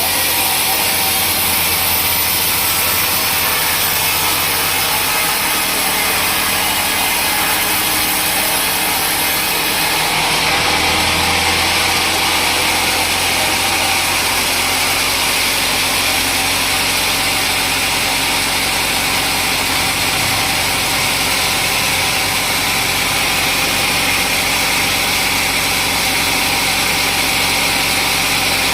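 Sawmill saw machinery running steadily, with a continuous mechanical hum and hiss; the sound shifts about ten seconds in, losing some of its high hiss as a lower hum comes in.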